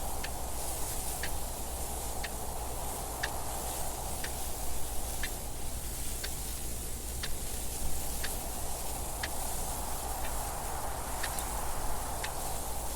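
Clock ticking steadily, about once a second, over a constant wind noise.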